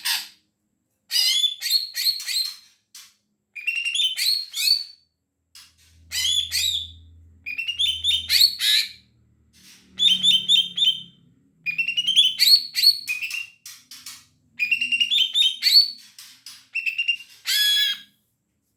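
Greater green leafbird (cucak ijo) in full, persistent song: about eight loud phrases of rapid, bending whistled notes, each a second or so long, separated by short pauses.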